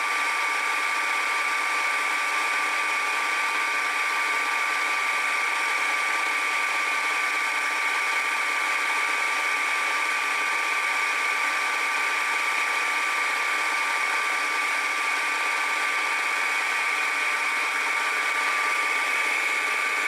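Milling machine spindle running steadily with a 4-flute carbide end mill, a constant even whine that neither rises nor falls.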